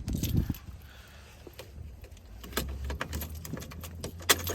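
Keys jangling and a string of sharp clicks as the ignition of a 1996 Dodge Ram 2500 Cummins diesel is tried, with no engine cranking: the battery is dead in the 5-degree cold. A faint low hum sets in about halfway.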